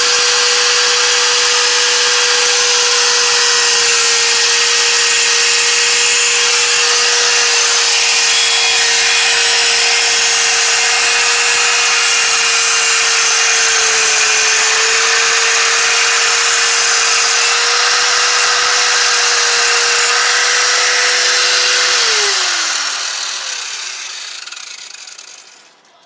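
Angle grinder cutting into the car's steel exhaust at full speed, a steady whine under loud grinding noise. Near the end it is let off, and the whine drops as the disc spins down.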